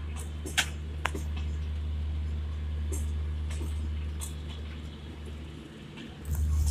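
Passenger coaches of an Indian express train rolling past slowly as a low, steady rumble, with two sharp clacks in the first second or so. The rumble grows louder near the end.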